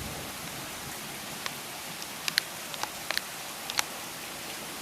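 Heavy rain pouring steadily, with a scattering of sharp ticks and taps in the middle, the loudest of them briefly rising above the rain.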